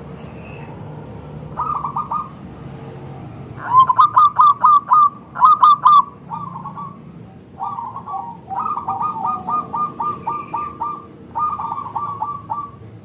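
Zebra dove (perkutut) cooing in repeated phrases of quick staccato notes. The phrases are loudest about four to six seconds in.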